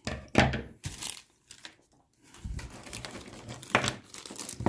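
Plastic bag crinkling and rustling as it is handled and opened, with a sharp crackle about half a second in and denser rustling in the second half.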